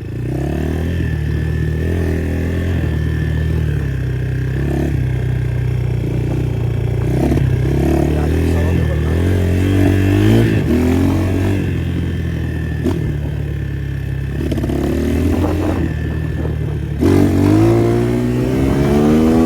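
250 cc motocross bike engine running under throttle, its pitch rising and falling repeatedly, with a climbing rev near the end.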